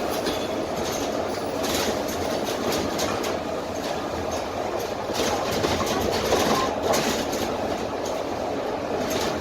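Cabin noise inside a Dennis Trident double-decker bus: its Cummins ISMe diesel engine and running gear give a steady rumble, with scattered clicks and rattles from the body and fittings.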